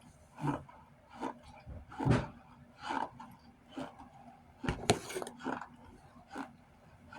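Close-up chewing of chunks of laundry starch: a crunch about every three-quarters of a second, with two sharper, louder crunches about two and five seconds in.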